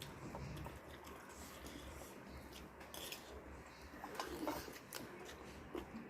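Close-up eating sounds: chewing with scattered short crisp clicks and crunches.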